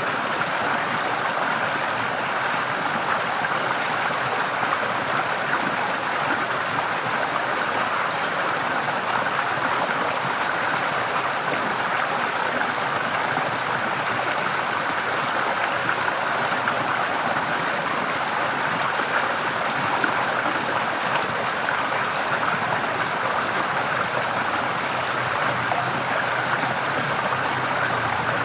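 Stream of water flowing steadily over rocks, an even rushing babble.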